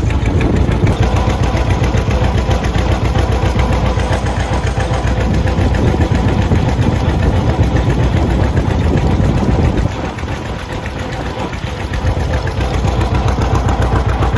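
An engine idling steadily, a low rumble that drops a little in level about ten seconds in.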